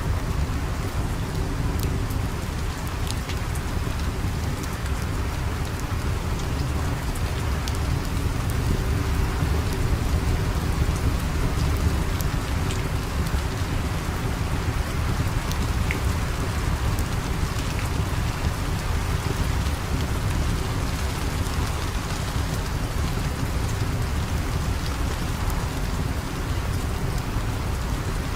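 Steady heavy rain with a deep low rumble underneath, and scattered sharp ticks from drops or crackles.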